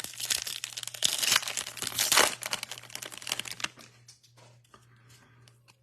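A trading-card pack's foil wrapper being torn open and crinkled by hand, loudest between one and two seconds in, then dying away after about three and a half seconds.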